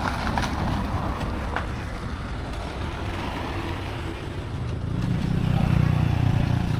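Motorcycle engine running, growing louder about five seconds in, with a few light clicks near the start.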